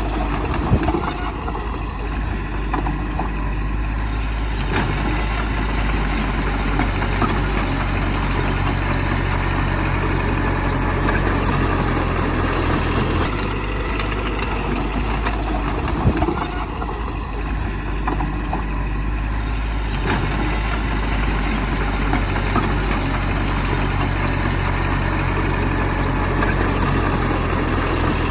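Heavy diesel engine of earthmoving machinery running steadily, with a few short sharp knocks, the loudest about a second in and about halfway through.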